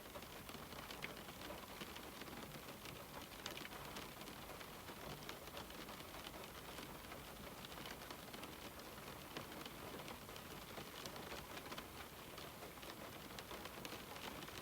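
Steady rain falling on a window: a constant faint hiss of rainfall with many small, irregular drop ticks.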